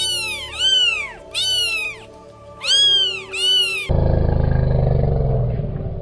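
Domestic cat meowing five times in quick succession, each call rising then falling in pitch. About four seconds in, an elephant's loud, low, rough call cuts in and fades away.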